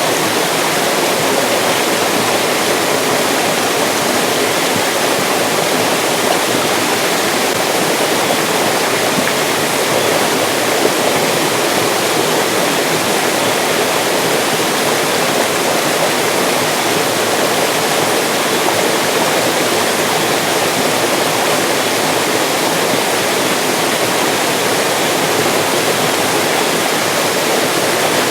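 Mountain stream rushing and splashing over rocks in a steady, unbroken flow.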